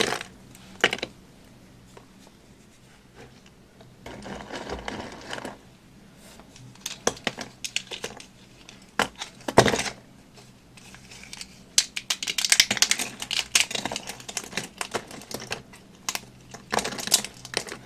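Dry, crumbly material crunching and crackling as it is pressed by hand, in several short spells of dense crackles with quiet gaps between them. One sharp snap, about ten seconds in, is the loudest moment.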